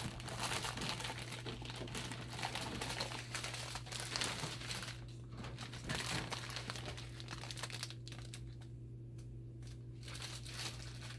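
Crumpling and rustling of something being handled, a dense run of crinkles and clicks that thins out to a few scattered clicks about eight seconds in, over a steady low hum.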